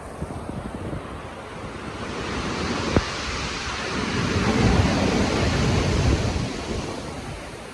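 Stormy sea surf and wind: a rushing surge builds about two seconds in, is loudest and deepest in the middle, then fades near the end, with one sharp click about three seconds in.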